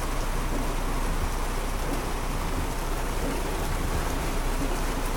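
Heavy rain pouring steadily on a car, heard from inside it.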